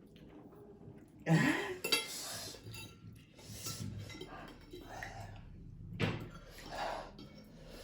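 Cutlery clinking and scraping against bowls and plates while noodles are eaten, with a short rising vocal exclamation about a second in.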